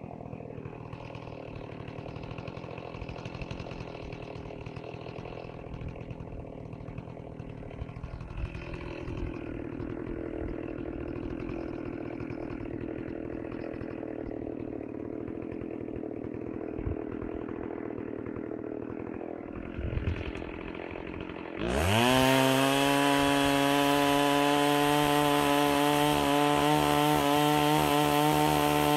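Stihl 038 Magnum two-stroke chainsaw running at low speed, a few knocks about twenty seconds in. It then revs sharply up to full throttle and holds a steady high note, cutting into wood.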